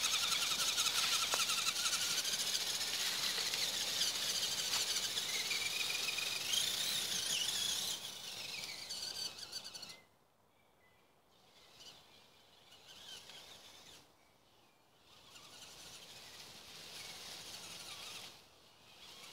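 High-pitched whine of a radio-controlled truck's electric motor, rising and falling in pitch as it is driven, fading about eight seconds in and dropping away around ten seconds in; quieter outdoor background follows.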